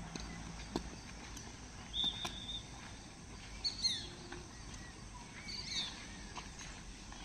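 Birds calling outdoors: a few short whistled notes, several sliding quickly downward, over a steady background hum, the loudest about a third and halfway through.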